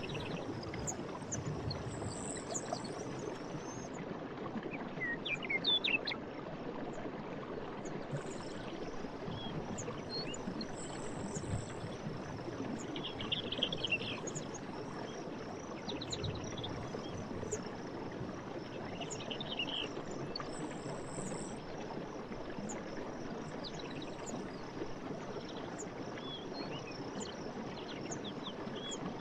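Night forest ambience: a steady low rush under crickets and other insects chirping in a fast, even pulse. Scattered short trilling calls and chirps come and go, a cluster about five to six seconds in and trills around thirteen and nineteen seconds in.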